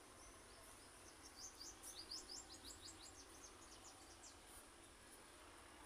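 Faint bird chirping: a quick run of short, high chirps that starts about half a second in and dies away after about four seconds, over quiet outdoor background.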